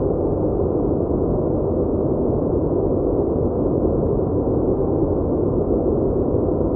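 Steady, muffled rushing noise without any change or separate events, deep and dull with nothing high in it.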